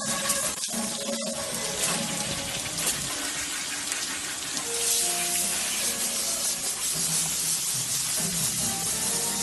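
Car-audio speaker playing with water on its cone: a steady spraying, splashing hiss over faint music.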